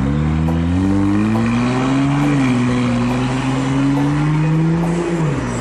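Car engine revving as it accelerates. Its pitch rises for about two seconds, holds fairly steady, then drops near the end as the throttle comes off.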